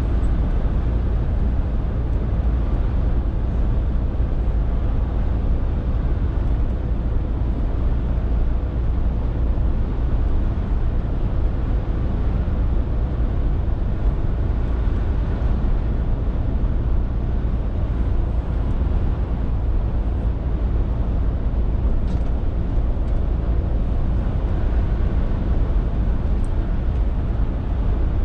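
Scania R450 lorry's 13-litre six-cylinder diesel running steadily while driving, a constant low rumble mixed with road noise.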